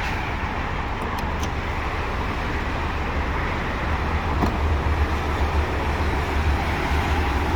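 Steady vehicle noise: a continuous low rumble with road-traffic hiss.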